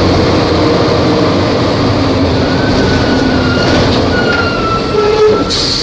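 Volvo B270F bus running on the road, its engine drone mixed with whine and body rattle. About two seconds in the engine note eases lower, as if it is coming off the throttle, while a whine slides slightly down. A steady high tone starts near the end.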